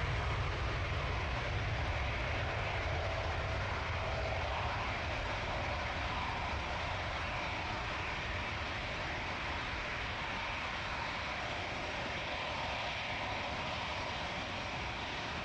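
Airliner engines rumbling steadily, the sound slowly fading.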